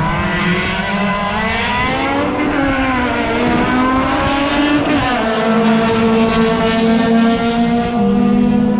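Car engine running hard, its pitch rising and falling several times as it revs, with a sudden change in note about halfway through.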